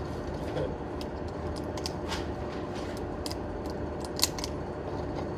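Irregular light clicks of typing on a phone keyboard, over a steady low hum of the room.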